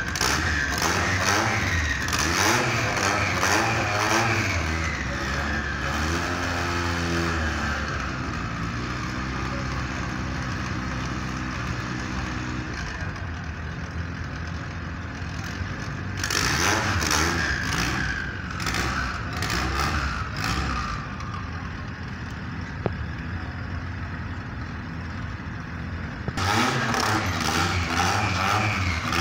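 Hatchback drag car's engine idling and being revved again and again, its pitch rising and falling, with louder stretches of revving between quieter idle.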